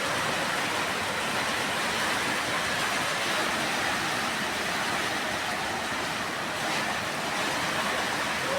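Steady rain falling heavily, an even hiss without breaks.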